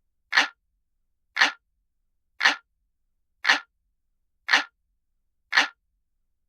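Looped analog-clock ticking sound: one sharp tick a second, each tick identical, with silence between.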